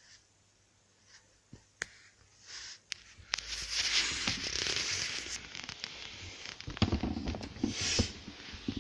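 Rustling and crackling, with a few sharp clicks. It is loudest from about three to five and a half seconds in, and more clicks and rustles follow near the end.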